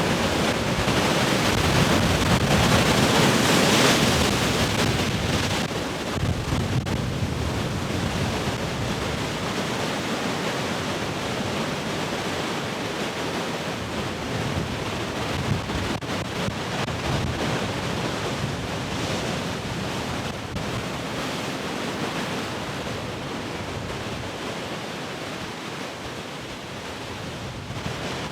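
Heavy ocean surf: a big wave breaks and is loudest three to four seconds in, then its wash of water and foam fades slowly.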